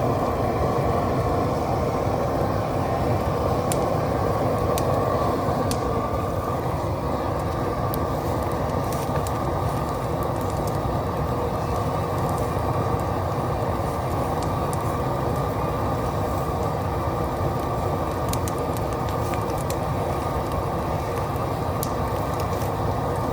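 Large burning brush pile: a steady rushing roar of flame with scattered sharp pops and crackles of dry wood.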